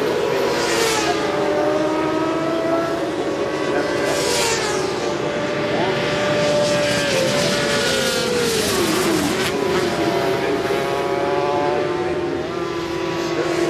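Several 400 cc supersport racing motorcycles running at high revs on track, bikes passing one after another. About eight seconds in, one engine's note falls steeply as it goes by or slows.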